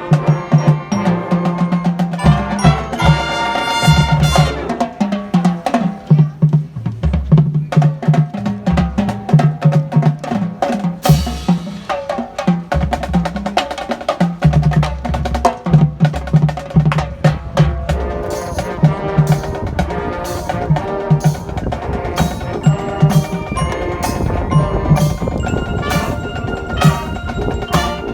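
Marching band playing with a prominent drumline and front-ensemble mallet percussion, driving low drum hits under pitched wind parts; the percussion strokes get sharper and more regular in the second half.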